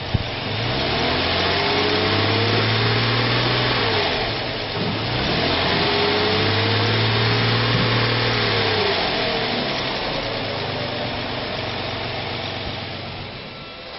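2002 Chevrolet Silverado 1500's 4.3-liter V6 engine running and revved twice, its pitch rising and falling each time, then easing back toward idle.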